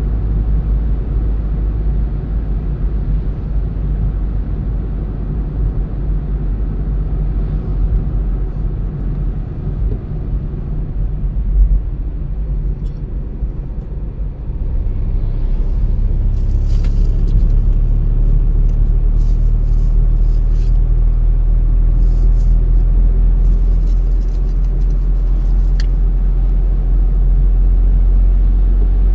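Road and engine noise of a moving car heard from inside the cabin: a steady low rumble that grows louder about halfway through, with intermittent high crackling hiss over it in the second half.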